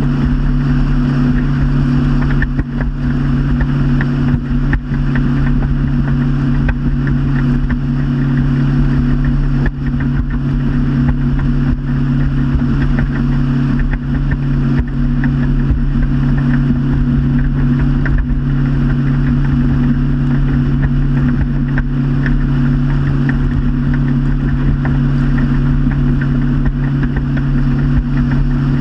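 Motorboat engine running at a steady speed, a constant hum with an even rushing noise over it.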